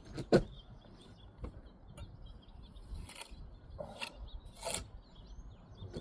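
Masonry hand work: two sharp knocks near the start, then several short scrapes, typical of a steel trowel tapping and scraping mortar on brick. Birds chirp faintly in the background.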